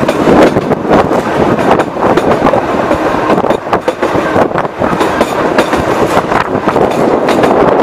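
Sóller Railway wooden carriage running along the track: a steady rumble of wheels on rails, with irregular clicks and knocks.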